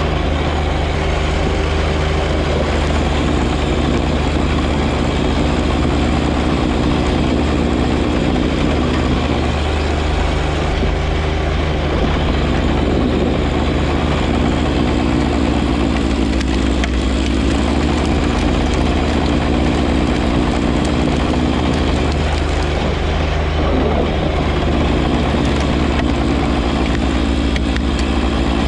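John Deere 1025R compact tractor's three-cylinder diesel engine running steadily, its tone shifting slightly a few times.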